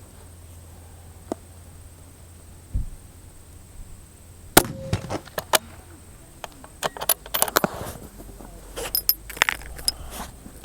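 One sharp report from a precision rifle about four and a half seconds in, followed by a run of quick metallic clicks and clinks from working the rifle.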